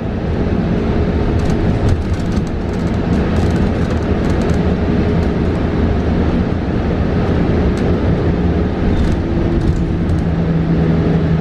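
Interior noise of a New Flyer XE40 battery-electric bus under way: steady road and tyre rumble with a low electric drive hum and light scattered rattles, and no engine sound. The hum grows stronger near the end.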